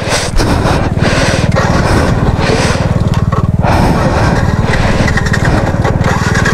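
Motorcycle engine idling at a standstill: a steady, rapid, even beat.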